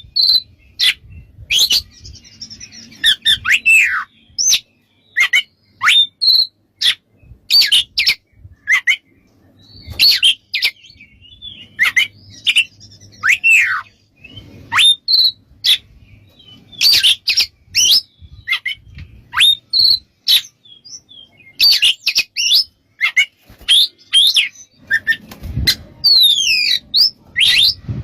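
Oriental magpie-robin (kacer) singing: a rapid, varied string of sharp whistled notes, chips and downslurred phrases with short gaps between them.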